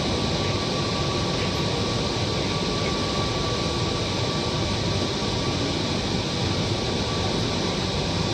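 Steady interior ambience of a Kochi Metro train car: an even rumble and hiss of the train and its air conditioning, with a thin steady whine running through it.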